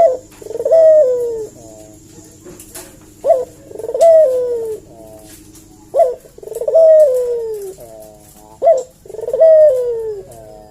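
Barbary dove (ringed turtle dove) cooing four times, about every three seconds. Each coo is a short sharp note followed by a longer falling note, the repeated song of a dove in full voice.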